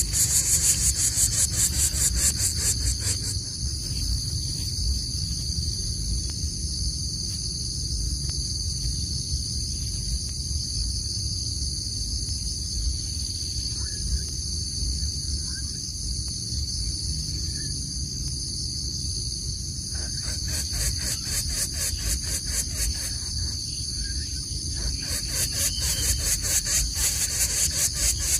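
Insects chirring in a steady high-pitched drone, with a dense fast-pulsing trill at the start and again from about twenty seconds in, over a low rumble.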